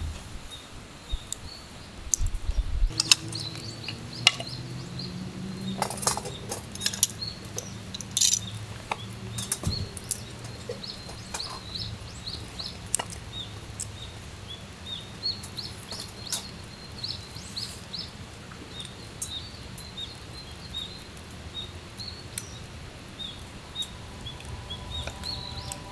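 Small birds chirping over and over, with sharp clicks and knocks in the first ten seconds or so.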